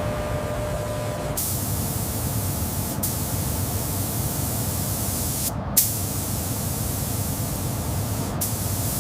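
A loud, steady spray-like hiss that starts about one and a half seconds in over a low machinery rumble. The hiss breaks off briefly a few times, once ending in a sharp click.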